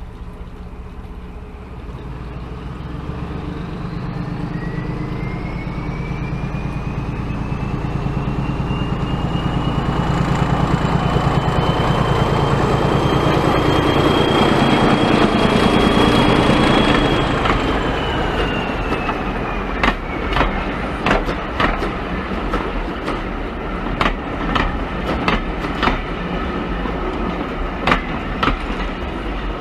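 Diesel train running, growing louder to a peak just past the middle with a whine that rises in pitch and then falls away. In the second half the wheels make sharp clicks, mostly in pairs, as they cross rail joints.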